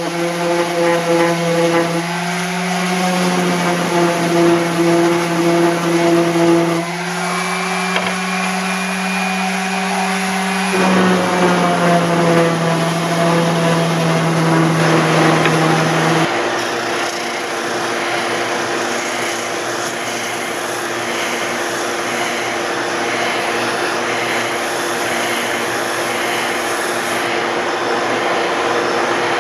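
Electric power sander running and sanding a wooden workpiece back to a marked line. The motor note shifts several times as the load changes, and the rasp of abrasive on wood grows stronger about halfway through.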